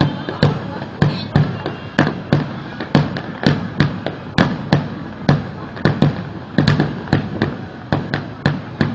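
Fireworks going off in a continuous, irregular string of sharp bangs, about two to three a second.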